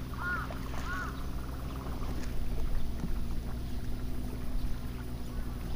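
Honda CB400SF inline-four engine through a WR'S slip-on muffler, holding a steady drone at cruising speed, with wind noise over it. A couple of short, arching high-pitched calls sound in the first second.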